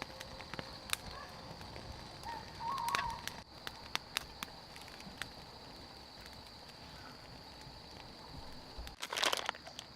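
Small wood fire crackling with scattered sharp pops, over a steady high-pitched drone; a few short bird chirps about three seconds in, and a burst of rustling near the end.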